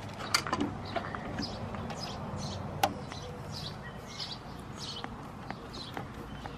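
A small bird chirping over and over, short high chirps about twice a second. A few light metallic clicks and taps come from screws and furnace parts being handled, the sharpest about three seconds in.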